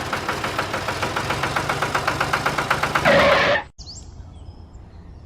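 An engine running with a rapid, even knock, about ten beats a second. It grows louder for a moment, then cuts off suddenly. Faint bird chirps are left behind it.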